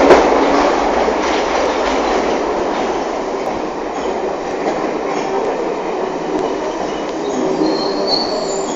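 London Underground C stock train running on the track: a steady rumble that starts suddenly, with high wheel squeal setting in near the end.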